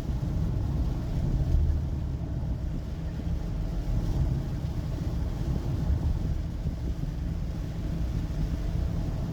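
Steady low rumble of a car's engine and tyres on the road, heard from inside the moving taxi's cabin.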